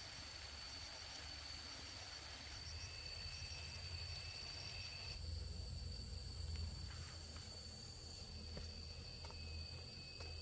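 Faint insects calling in a steady high trill, with a second, lower trill that joins for a few seconds and returns near the end, over a low rumble. A few light clicks in the second half.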